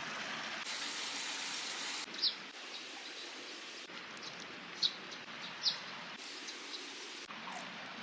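Steady outdoor hiss with three short, high bird chirps, about two, five and five and a half seconds in.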